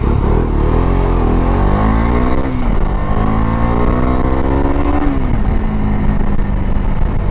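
Bajaj Dominar 250's single-cylinder engine accelerating hard from the rider's seat. The revs climb in two long pulls, with an upshift about two and a half seconds in and another about five seconds in, then hold steady.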